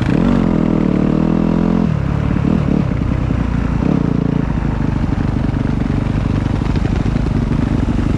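Motocross motorcycle engine running loud. Its pitch climbs over the first two seconds, drops about two seconds in, then runs on with small rises and falls.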